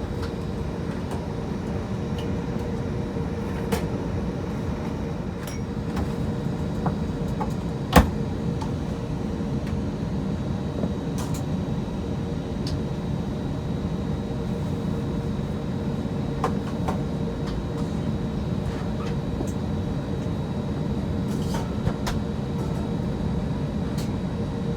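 Airbus A320 cabin noise on the ground before takeoff: a steady low rumble with a steady hum, dotted with light clicks and one sharp knock about eight seconds in.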